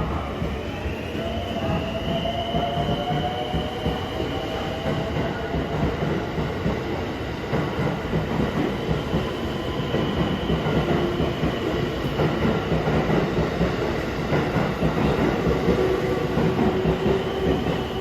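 Electric express train running. Its motor whine rises in pitch over the first couple of seconds as it picks up speed, then settles into a steady running noise of wheels on rail with a held whine.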